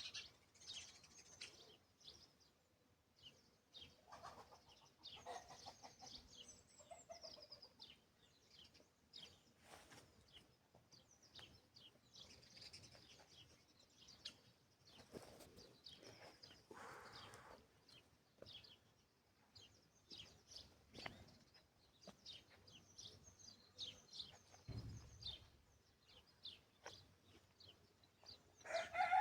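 Faint farmyard chickens clucking, with many short, high bird chirps scattered throughout.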